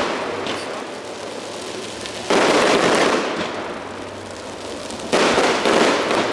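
Fireworks: aerial shells bursting twice, about two seconds and five seconds in, each burst followed by about a second of dense crackling that fades away, with fainter crackling in between.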